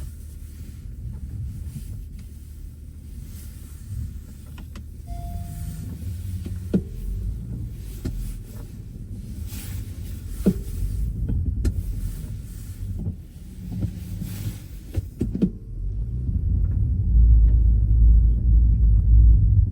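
Low rumble of a car driving, with scattered clicks and knocks, growing louder in the last few seconds.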